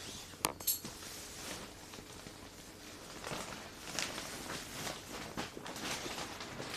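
Irregular scuffing and rustling, with two sharp clicks about half a second in.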